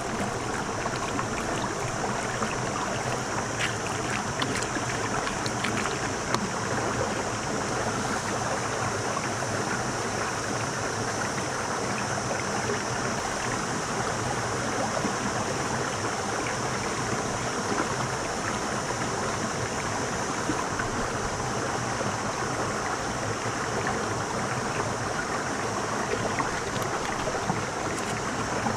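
Steady rushing noise of flowing water, even throughout, with a few faint clicks about four to six seconds in.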